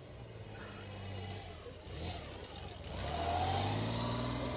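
A car engine running, its pitch rising and growing louder about three seconds in.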